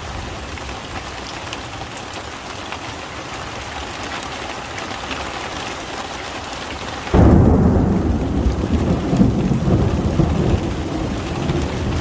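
Steady heavy rain, then about seven seconds in a sudden loud crack of thunder that rumbles low and slowly dies away over the following seconds while the rain keeps falling.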